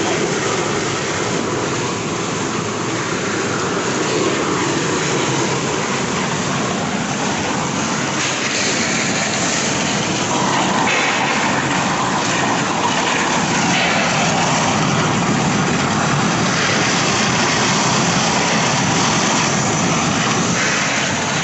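Heavy rain with runoff water gushing steadily into a drainage hole, a loud even rush of noise.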